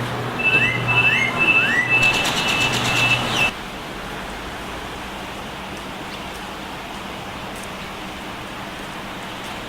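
A train standing at a station platform, its electronic door warning beeping rapidly on one high note, with a few short rising bird chirps. The train noise and beeping cut off abruptly about three and a half seconds in, leaving a steady, even hiss.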